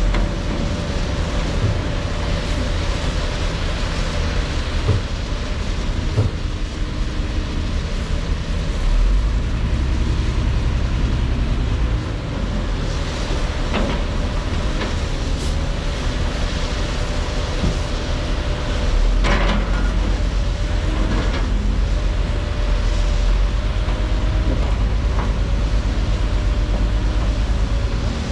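Heavy diesel construction machinery running steadily: a deep engine rumble with a steady whine over it. The rumble grows louder about nine seconds in and again about two-thirds of the way through. A few sharp knocks come in the second half.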